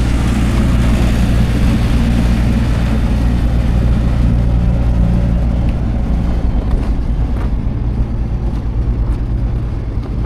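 Steady low engine hum under outdoor background noise; the higher noise thins out after about six seconds.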